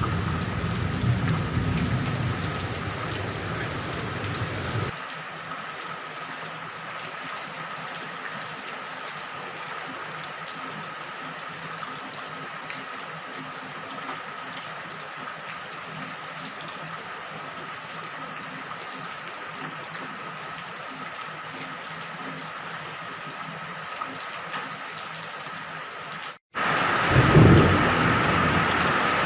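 Steady rain falling, with a low thunder rumble in the first few seconds. About five seconds in it cuts abruptly to quieter, even rain. Near the end the sound drops out for a moment, then heavier rain with low rumbling comes back.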